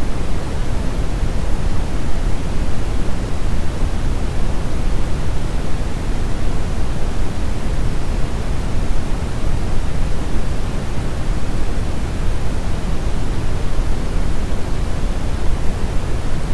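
Steady, loud brown noise: an even, deep rushing hiss, strongest in the low end and thinning toward the top, with no change.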